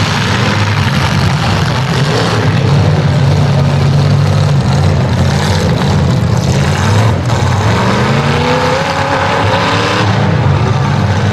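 Several demolition derby cars' engines running loud together, with engines revving up in rising pitch in the second half.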